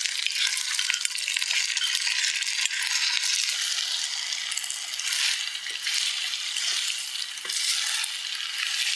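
Food sizzling and crackling in hot oil in a pan: a steady hiss with fine spitting crackles.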